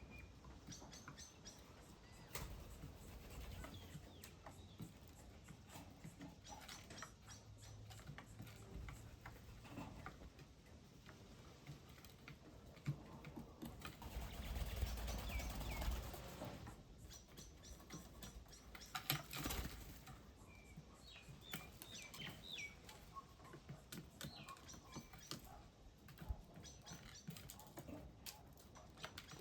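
Small birds giving short, high chirps on and off, with scattered light taps and clicks and a louder rustling stretch about halfway through.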